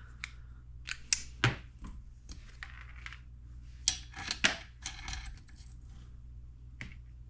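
Hand tools and small metal engine parts being handled on a workbench: scattered sharp metallic clicks and clinks, several in a quick cluster about a second in and again around the middle, over a steady low hum.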